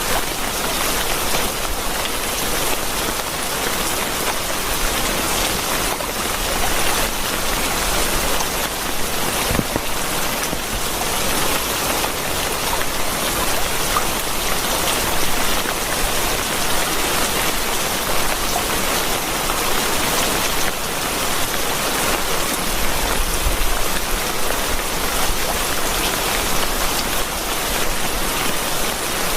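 Steady rain falling: a dense, even hiss of many drops that holds at one level throughout.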